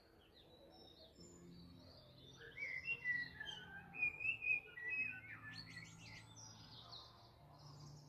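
Small garden birds chirping and singing in quick, varied phrases, busiest and loudest in the middle, over a faint steady low hum.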